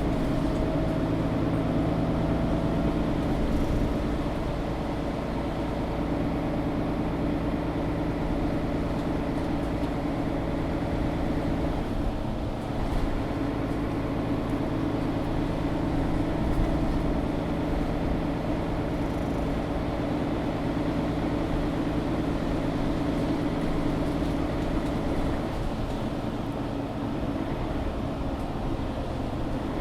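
Interior sound of a Mercedes-Benz O530 Citaro articulated bus driving: the engine and driveline hum steadily under road noise, with a faint whine that rises slightly in the first few seconds and a brief lull about twelve seconds in.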